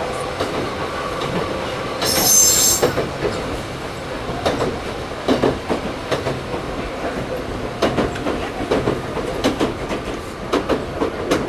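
Toyohashi Railway 1800 series (ex-Tokyu 7200 series) electric train running, heard from inside the motor car: a steady hum that fades about two seconds in, a brief high-pitched wheel squeal just under a second long, then irregular clacks of the wheels over rail joints.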